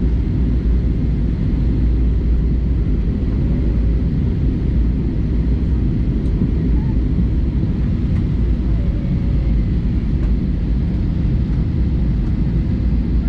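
Steady low rumble of an Airbus A320-200 in flight, heard from inside the cabin: engine and airflow noise, with a few faint clicks.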